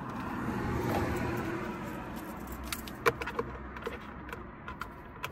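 Mazda 3 2.0-litre engine idling as a low, steady rumble, with rustling of someone climbing into the car, loudest about a second in, and a few sharp clicks about three seconds in.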